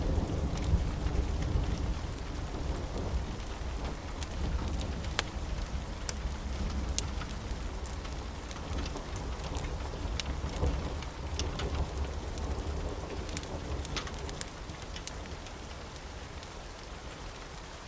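Steady rain with a low rumble of thunder that slowly fades away, and scattered sharp pops and clicks over the rain.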